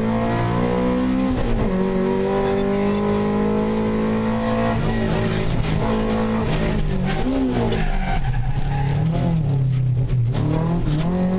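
Honda Civic VTi rally car's engine heard from inside the cabin, working hard at high revs. Its pitch drops and climbs again about a second and a half in and again around five seconds in, with gear changes and lifts, then it rises and falls at lower revs near the end.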